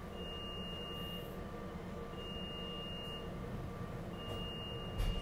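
Steady rumble inside a SEPTA regional rail car, with a high electronic beep about a second long sounding three times, about two seconds apart, and a short knock just before the end.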